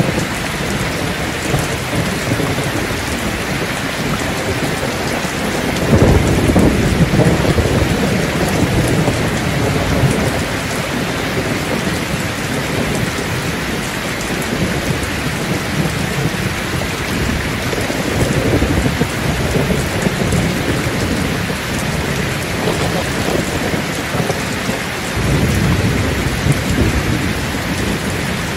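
Heavy rain pouring steadily onto the road and hard surfaces in a wind-driven storm. Two louder low rumbles come in suddenly, about six seconds in and again near the end.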